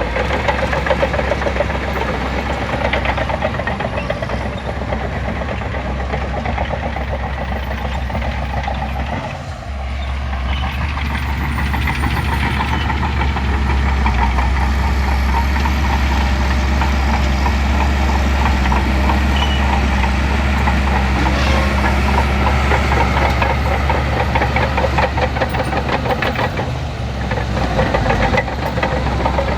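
Diesel engine of a Shantui crawler bulldozer running steadily with a fast, even firing rhythm, easing off briefly about nine seconds in and again near the end.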